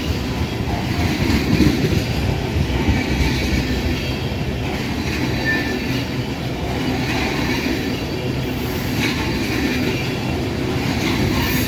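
Loaded ethanol tank cars of a CSX freight train rolling past at speed, a steady rumble of steel wheels on the rails.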